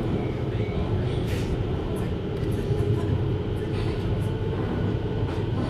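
Running sound inside a JR Hokkaido 733 series electric train in motion: a steady low rumble of wheels on rail and running gear.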